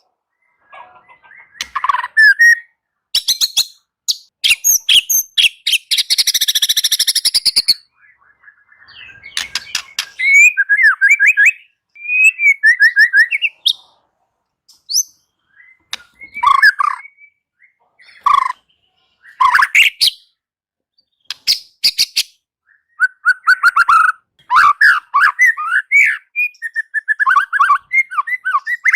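White-rumped shama singing in loud, varied bursts with short pauses between them: quick whistled notes that slide up and down, rapid clicking rattles, and one harsh rasping burst about six seconds in.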